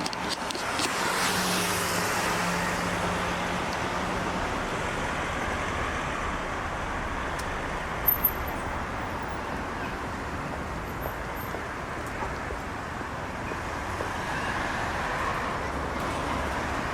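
Steady urban road traffic noise, with a vehicle's low engine hum in the first few seconds and a brief high click about eight seconds in.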